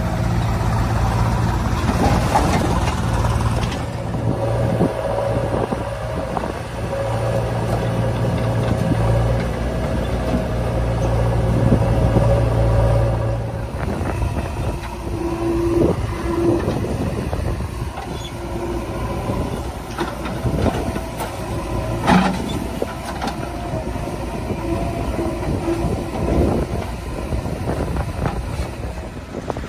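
Heavy diesel engine of a loader or tractor running steadily, then changing note about halfway through, with scattered knocks and one sharp metallic clank about two-thirds of the way in.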